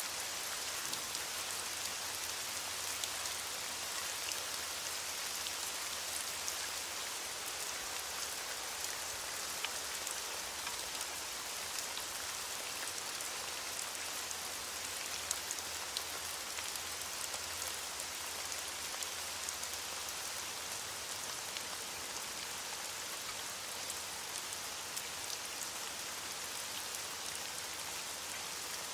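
Steady rainfall: an even hiss of rain with many scattered individual drops ticking against a surface.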